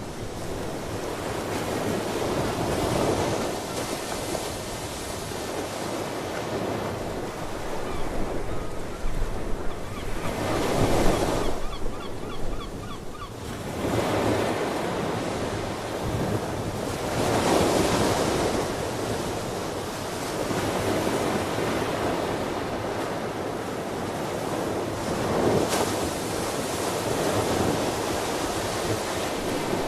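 Ocean surf: waves breaking and washing ashore, the sound swelling and ebbing every few seconds.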